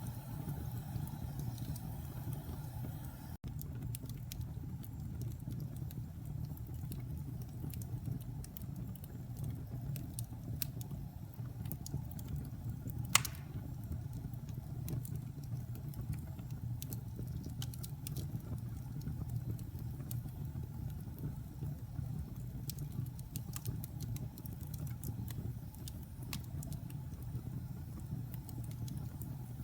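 Wood fire burning in a fireplace: a steady low rumble with scattered small crackles and one louder pop about halfway through.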